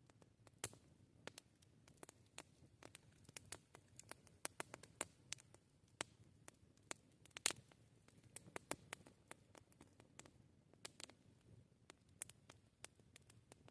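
Wood fire crackling: sharp, irregular pops and snaps, a few at a time, over a soft low rumble of burning, with one louder pop about halfway through.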